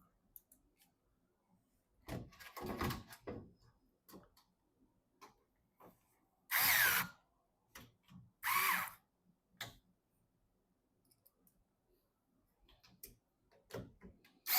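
An electric screwdriver driving screws in short whirring bursts of about half a second, twice in the middle and once more at the end, with light clicks and a rattle of handled parts between.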